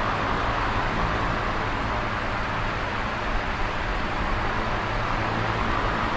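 Electric fan running steadily: a constant whooshing of moving air, strongest in the middle range, with a low motor hum underneath.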